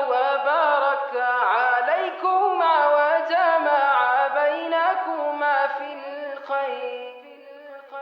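Wordless, melismatic singing over a steady sustained drone: an instrumental-vocal interlude of an Islamic wedding nasheed. It fades down near the end.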